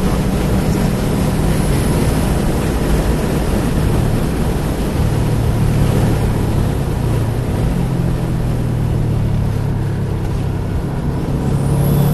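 Car engine pulling at track speed, heard from inside the cabin over wind and tyre noise. The note holds steady, drops off around ten seconds in as the car slows for a corner, and picks up again near the end as it accelerates out.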